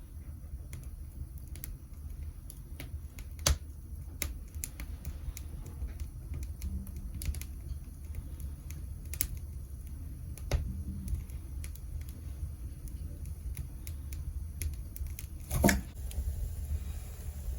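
Wood fire crackling with scattered sharp, irregular pops in the firebox of a Goemon-buro iron bathtub, over a steady low rumble of strong wind on the microphone. A louder knock near the end.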